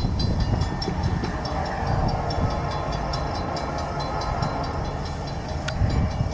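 Freight train of tank cars passing close by: a steady low rumble of wheels on rail with rapid clicking and a few high steady squealing tones, and one sharp clank near the end.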